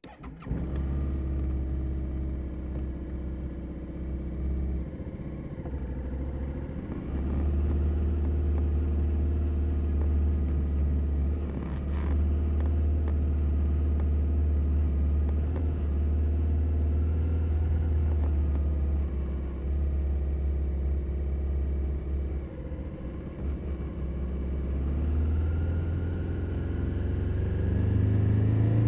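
2021 Suzuki SV 650's 645 cc V-twin engine running steadily at low revs, heard from under the seat, with a few brief dips in throttle. Near the end the revs rise as the bike accelerates.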